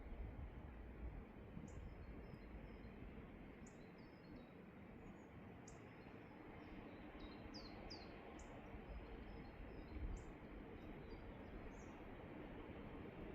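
Quiet outdoor background: a steady low rumble with small birds chirping on and off, including a few quick falling whistles about seven seconds in.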